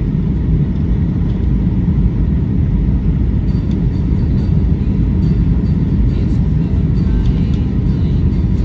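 Cabin noise aboard a Boeing 757-200 on approach: a loud, steady low rumble of engines and rushing air, with faint light ticks starting about three and a half seconds in.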